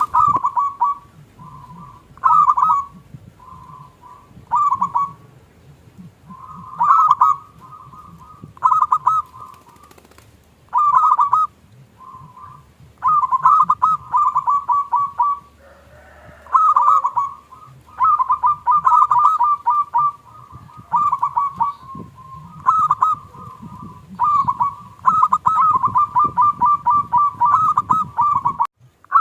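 Zebra dove (perkutut) singing: short phrases of quick, repeated cooing notes, coming every second or two with brief gaps, and running closer together near the end.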